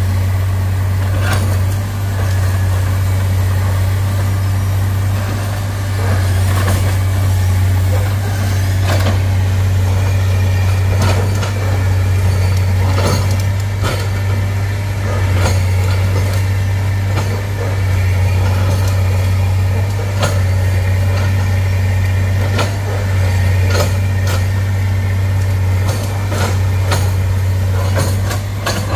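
Heavy diesel engine running steadily under a deep hum, with scattered sharp knocks and clanks.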